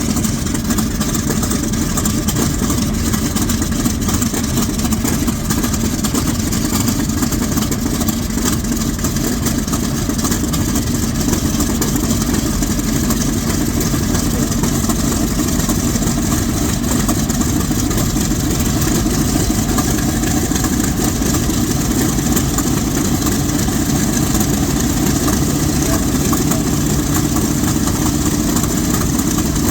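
A Corsair's 18-cylinder Pratt & Whitney R-2800 radial engine running steadily on the ground. Its note rises slightly in engine speed about two-thirds of the way through.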